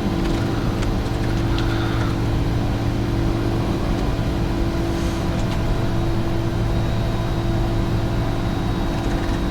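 Steady cockpit noise of a Bombardier Challenger 605 jet in the climb: engine and airflow noise with a constant low hum and a faint high whine.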